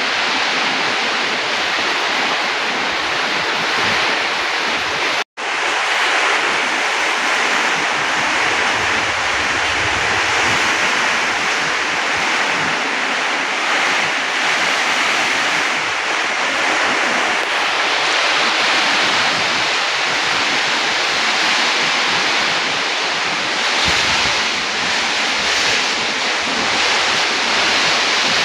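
Heavy rainstorm with strong wind: a loud, steady rush of rain and wind with wind buffeting the microphone, cut off for an instant about five seconds in.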